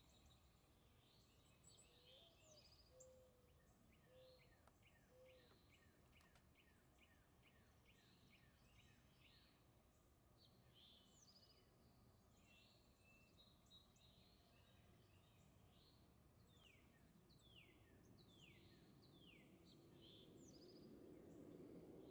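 Faint outdoor background of bird chirping: many quick downward-sliding chirps, repeated throughout, over a low background hum that grows slightly louder near the end.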